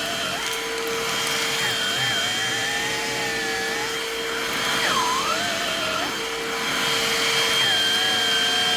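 Bissell Pet Hair Eraser cordless hand vacuum running, with a steady motor whine and a higher tone that wavers and dips in pitch as it works, most plainly about five seconds in.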